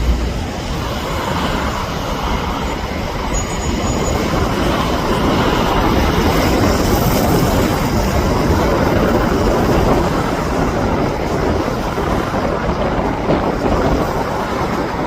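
Boeing 787 airliner's jet engines at takeoff power during its takeoff roll: a steady rumble and roar.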